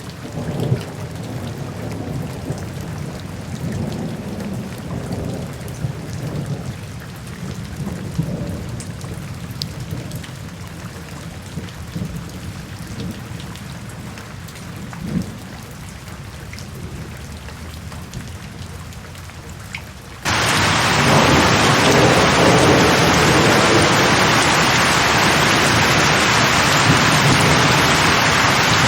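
Thunderstorm: low, rolling thunder rumbles over light rain. About two-thirds of the way through, the sound cuts abruptly to loud, steady heavy rain.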